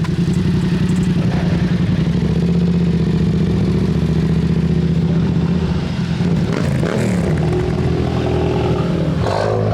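A vehicle engine running loud and close, idling steadily, with its pitch briefly rising and falling twice: once about two-thirds of the way through and again near the end.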